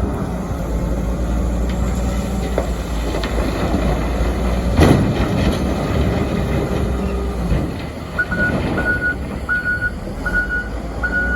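Heavy diesel engine of a large wheel loader running under load, with a loud crash about halfway through as a bucket of coal drops into a truck trailer. From about two-thirds of the way in, a backup alarm beeps steadily, a little under twice a second.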